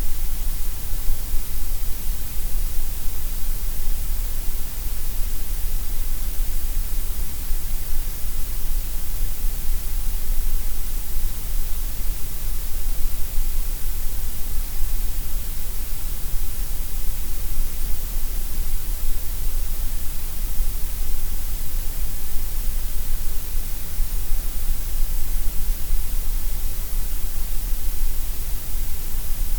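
Synthetic gray noise: a steady, unchanging hiss over a deep rumble, fuller in the lowest and highest ranges than in the middle.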